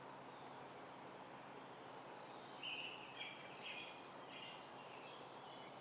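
Faint outdoor ambience with a bird calling a short series of high chirps a little past the middle.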